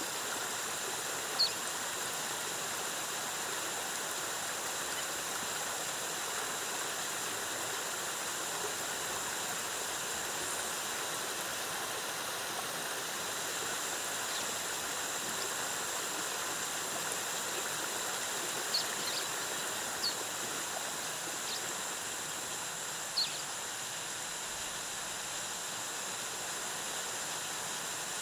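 Waterfall cascading in a steady, even rush of water, with a steady high whine underneath. A few brief high chirps come through once near the start and several times near the end.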